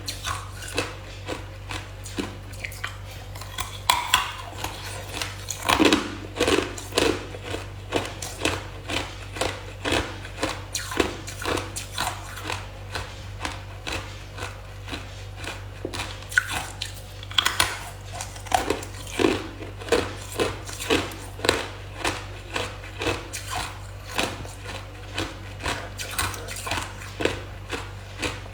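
A person biting and chewing hard ice: a steady run of crisp crunches, about one or two a second, with a few louder bites early on, over a low steady hum.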